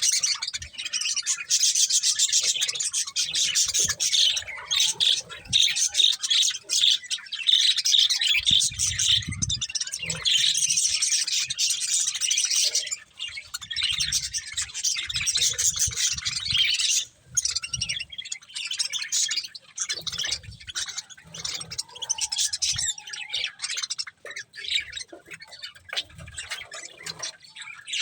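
Budgerigars chattering and chirping in a dense, continuous high warble, with soft low thumps now and then.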